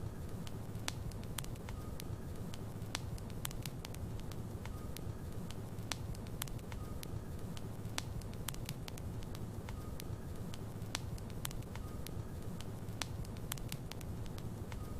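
Logs burning in a fireplace: a steady low rumble of the flames with frequent irregular sharp crackles and pops from the wood.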